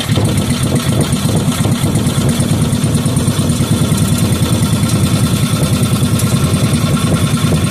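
5 hp Briggs and Stratton single-cylinder engine running steadily with a rapid, even exhaust beat, while its idle speed and air-fuel mixture are being adjusted.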